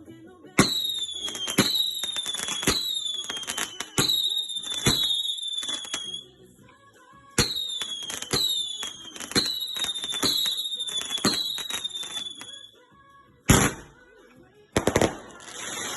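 Display fireworks going off: two rapid volleys of sharp bangs, each about five seconds long, with a short falling whistle after each bang. Two louder single bangs follow near the end.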